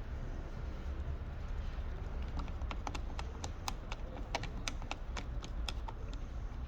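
An irregular run of light, sharp clicks and taps, about two to three a second, starting about two seconds in and stopping near the end, over a low steady hum.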